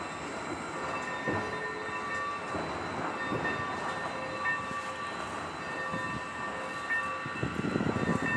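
Railroad locomotive moving slowly on the track: a steady noisy hum with several held tones over a rumble that grows louder near the end.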